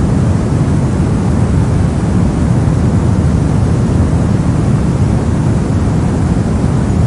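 Steady, even synthetic noise, weighted toward the low end (a soft, deep hiss like pink or brown noise), with no changes or events.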